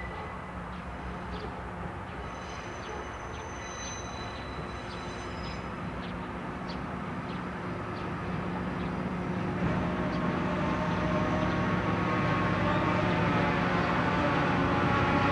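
Train approaching on the line, its running noise and low engine hum growing steadily louder over the second half.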